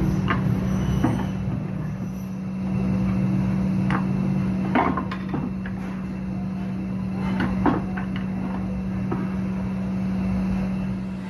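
Electric power tool running steadily with a constant hum, working on the metal of an old iron, with several sharp knocks as the tool or part is moved. The tool stops right at the end.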